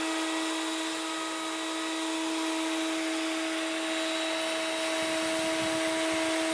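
A steady, unchanging motor hum with a strong hiss.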